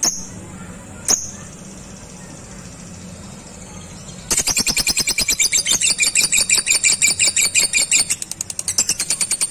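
A lovebird gives two sharp single chirps, then about four seconds in breaks into its long 'ngekek': a rapid, even, high chattering trill of about ten notes a second that keeps going.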